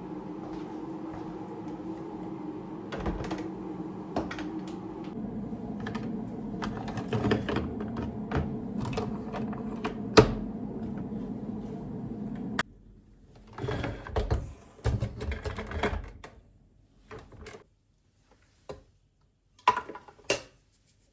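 A small motor running with a steady hum, mixed with clicks and knocks, that cuts off suddenly about twelve seconds in; after it come scattered knocks and handling clatter.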